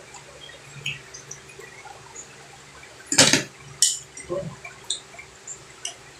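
Close-up eating sounds: wet mouth and chewing noises with light clinks of cutlery on dishes, and a short louder noisy sound a little past three seconds in.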